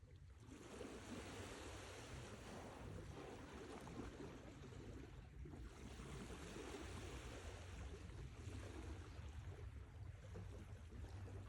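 Sea waves washing in, a steady rushing surf that swells just after the start and dips briefly about halfway through.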